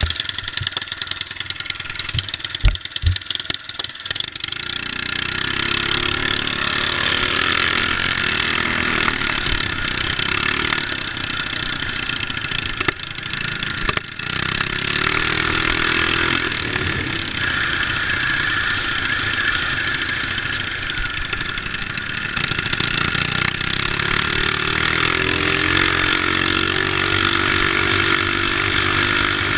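Small mini bike engines running and revving, their pitch rising and falling, with more than one engine heard at times. A few low thumps come in the first few seconds.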